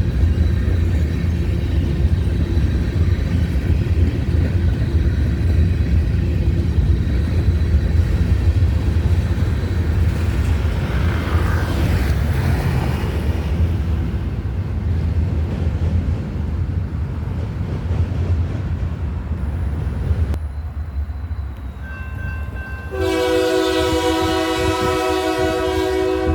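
Diesel train rumbling steadily as it runs past, its low engine and rail noise swelling and easing. After the rumble drops away, a locomotive's multi-chime air horn sounds a long chord about three-quarters of the way through.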